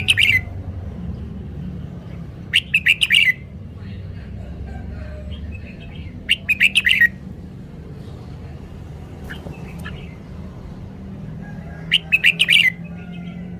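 Red-whiskered bulbul singing: short phrases of quick, bright notes, one every three to six seconds, over a steady low background hum.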